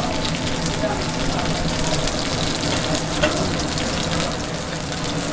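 Mung bean pancake sizzling in oil on a flat griddle: a steady frying hiss, with one sharp click about three seconds in.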